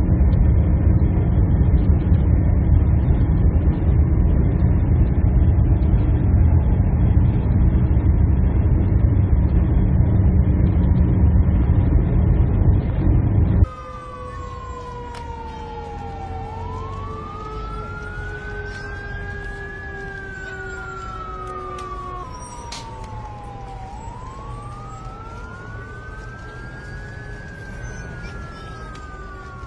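A loud, steady low rumbling noise that cuts off suddenly about halfway through. It gives way to two wailing sirens that slowly fall and then sweep back up in pitch, out of step with each other.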